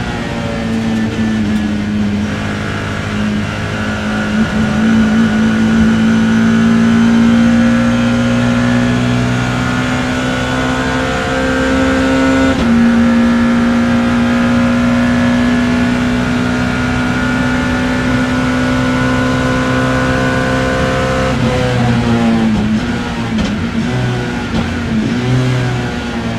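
BMW E30 M3's four-cylinder race engine heard from inside the car, pulling at length with its pitch slowly climbing, and one upshift about halfway through. At about 21 seconds the driver lifts off and the revs fall through downshifts, with short rev blips near the end.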